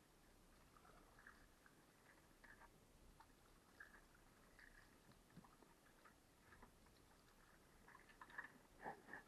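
Near silence with faint scattered small clicks and ticks, a few slightly louder ones near the end.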